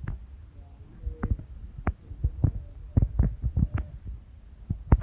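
Irregular sharp knocks and low thumps, about fifteen in five seconds, unevenly spaced.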